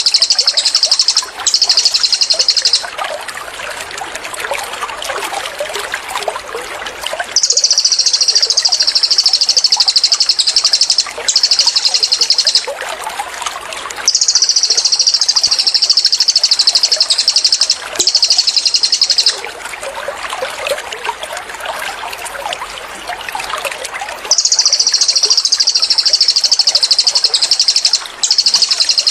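Cililin songbird giving rapid, high-pitched 'tembakan' trills in long runs of several seconds, each briefly broken by a short gap. Trickling water babbles between the runs.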